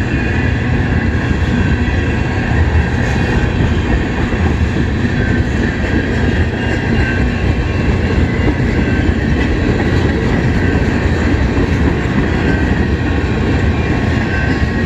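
CN freight train's cars rolling past at close range: a steady, continuous rumble of steel wheels on the rails.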